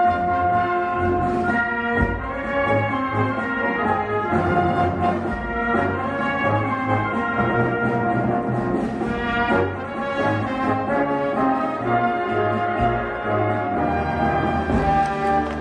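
Live instrumental music from a band with brass instruments, playing held chords over a pulsing bass line.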